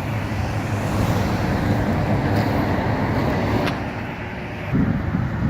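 Steady motor-vehicle noise with a low hum, dipping slightly about four seconds in and turning rougher near the end.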